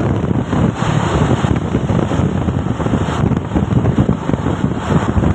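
Truck on the move: a steady rumble of engine and road noise, with wind buffeting the microphone.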